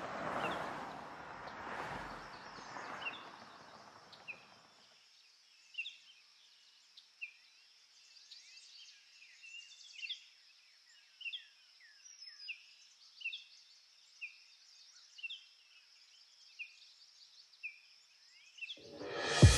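Small birds chirping in short, quick notes, repeated roughly every half second to second, over a faint steady high hiss. A broad rumbling noise fades out during the first few seconds.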